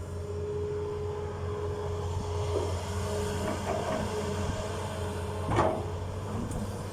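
Hitachi ZX200-5G excavator's turbocharged six-cylinder Isuzu diesel running steadily with a constant whine. One sharp clank comes a little over five seconds in.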